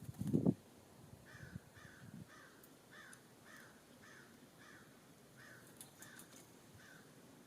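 A short low thump just after the start, then a bird calling in a series of about ten short calls, roughly two a second, each dropping slightly in pitch.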